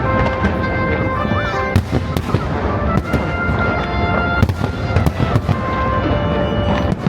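Aerial fireworks display: a dense, continuous run of bangs and crackles from bursting shells, with music playing along.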